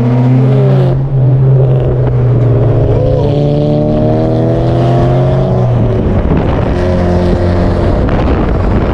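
Car engine running at a steady speed, its hum shifting pitch about a second in, rising slowly and then dropping near six seconds as the revs change.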